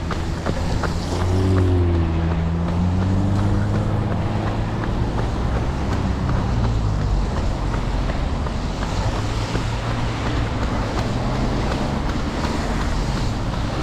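Steady low rumble of wind noise on a body-worn camera microphone while running, with a low droning hum. The runner's footsteps on the trail are heard as regular ticks that fade out after about a second.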